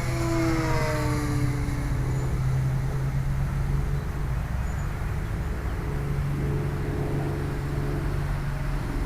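Model airplane's motor and propeller running in flight, a buzzing drone whose pitch falls over the first two seconds and then holds steady.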